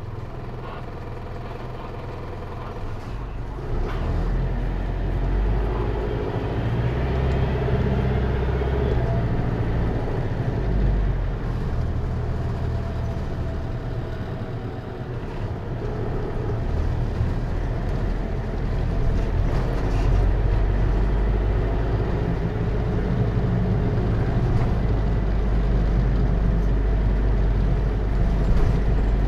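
Hino Liesse microbus's J05C diesel engine running under way, with its automatic transmission, heard from inside the bus. The engine gets louder about four seconds in as the bus pulls ahead, eases off near fifteen seconds, and picks up again near twenty seconds.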